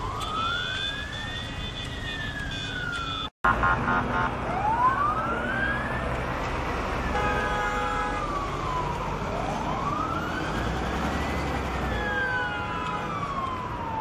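Emergency vehicle siren wailing, its pitch slowly rising and falling about three times, with car horns sounding in between. The sound cuts out for an instant a few seconds in.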